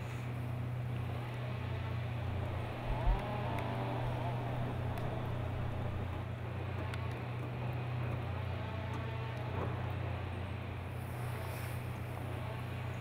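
Engine of heavy logging machinery running steadily as a low drone, with a single thump about three seconds in.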